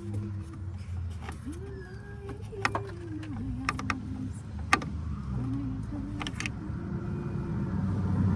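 Small metal clicks and taps of a hex extension and bit working against the headlight bracket, over a steady low hum and a wavering tone that rises and falls. The hum swells near the end and cuts off suddenly.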